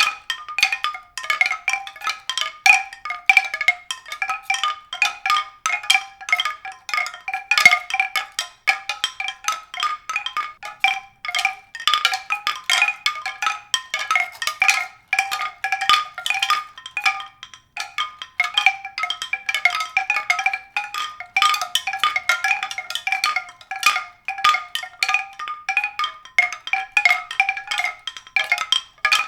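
Tuned mallet-percussion music: a continuous stream of quick struck, ringing notes.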